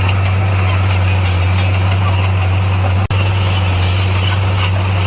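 Heavy construction machine's diesel engine running steadily with a deep, even drone. The sound drops out for an instant about three seconds in.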